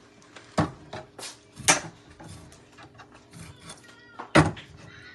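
Kitchen handling sounds: three sharp knocks or clinks of dishes and utensils, one about half a second in, one near two seconds and the loudest past four seconds, with fainter clatter between.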